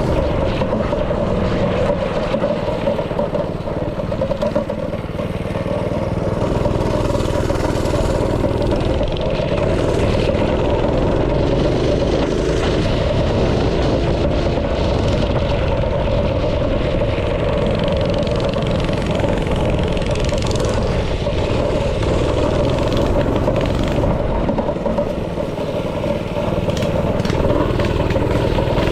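Small single-cylinder engine of a go-kart or mini-bike-type yard machine running steadily under way. It eases off briefly about five seconds in and again near the end.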